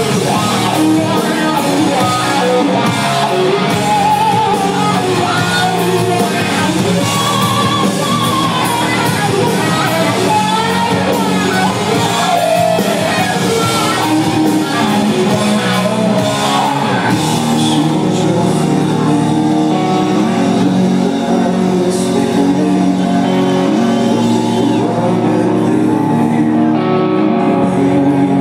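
Live rock band playing loud and steady, with electric guitars, bass and drums and a singer's voice over them, heard in a large concert hall.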